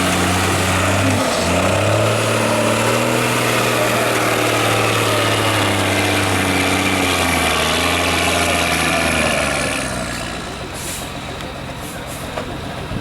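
Heavy off-road trial truck's diesel engine working hard, its pitch rising and falling as the revs change. About ten seconds in it drops away, leaving short hisses and clicks near the end.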